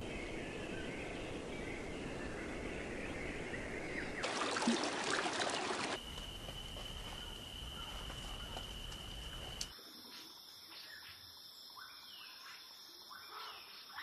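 Wild birds calling over a steady outdoor background. The sound shifts abruptly a few times: a louder stretch of noise a few seconds in, a steady high tone through the middle, and clearer separate chirps over the last few seconds.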